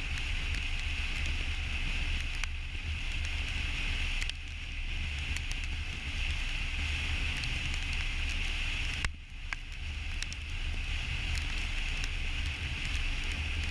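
Steady road and wind noise of a car driving at highway speed: a deep low rumble under a constant hiss, with a few faint clicks. The noise dips briefly about four seconds in and again about nine seconds in.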